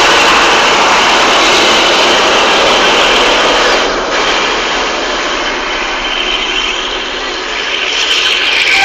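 Railway locomotive's engine running close by, loud, easing somewhat about four seconds in and building again near the end.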